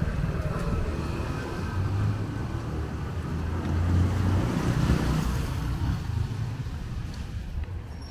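A motor vehicle driving past on a rain-wet street: its engine hum swells in the middle and fades away after about six seconds.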